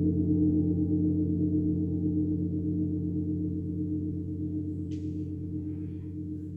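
A deep gong ringing out after a strike. Its low tones pulse slowly as they fade.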